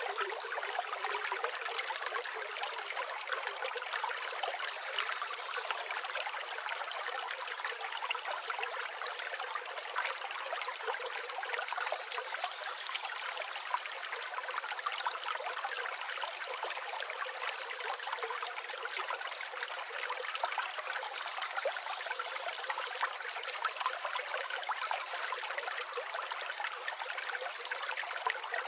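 River water flowing steadily over rocks, a continuous babbling rush with no low rumble. A few faint, brief bird chirps sound high above it now and then.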